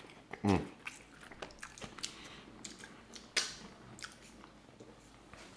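Close-up mouth sounds of eating crispy fried chicken: wet chewing with scattered crunches and mouth clicks. A short falling vocal sound comes about half a second in, and a louder crunch about three and a half seconds in.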